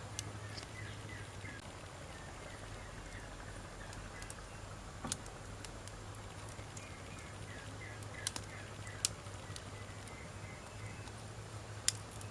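Wood fire burning with a few sharp pops and crackles scattered through, over a steady low hum.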